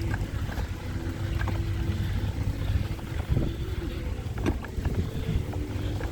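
Wind rumbling on the microphone while riding a bicycle through sand, with scattered small clicks and a faint steady drone in the background.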